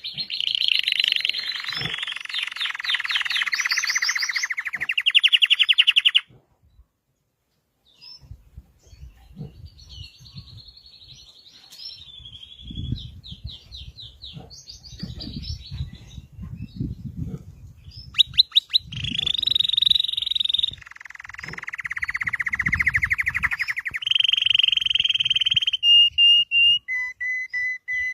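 Red canary singing long phrases of fast rolling trills and warbles, with a short silence about six seconds in. The song picks up again loudly in the second half and ends on short repeated whistled notes. A quieter middle stretch carries soft low thumps.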